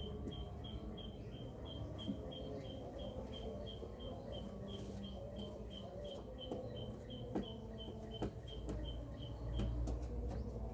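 Rhythmic series of short high chirps, about three a second, that stops shortly before the end, with a few faint clicks and a low rumble near the end.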